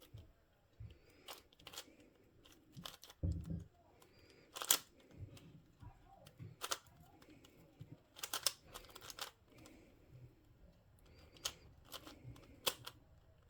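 A plastic twisty puzzle being turned by hand: irregular sharp clicks and clacks as its layers turn, with a low thump a little over three seconds in.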